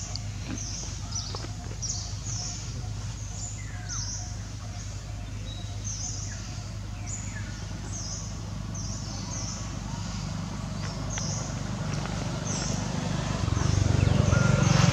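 Small birds chirping: short, high chirps repeating irregularly about once or twice a second over a steady low hum. A low rumble grows louder near the end.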